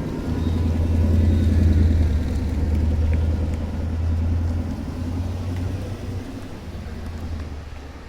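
A car driving by with a deep, low exhaust rumble. It swells over the first couple of seconds, then slowly fades as the car moves away.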